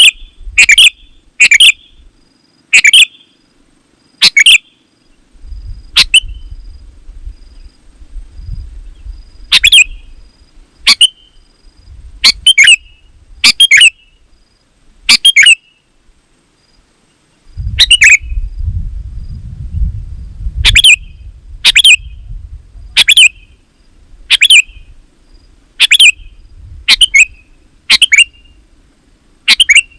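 A sooty-headed bulbul (kutilang) calling with short, sharp notes, each a quick sweep in pitch, repeated about once a second with brief pauses. This is the lively, persistent calling that bird keepers call gacor. A low rumble comes in twice under the calls, about a third of the way in and again past the middle.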